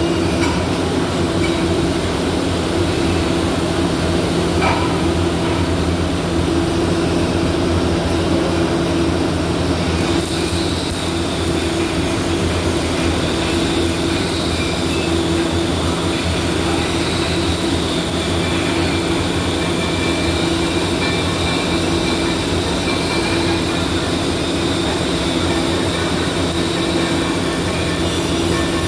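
Steady machinery drone with several hum tones under a noisy haze, joined about ten seconds in by a faint high whine.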